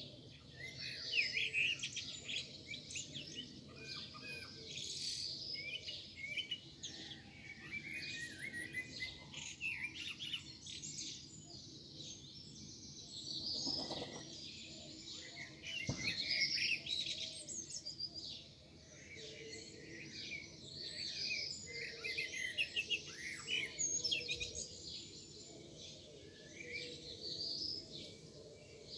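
Several songbirds singing and chirping at once, their short phrases overlapping continuously in a morning chorus.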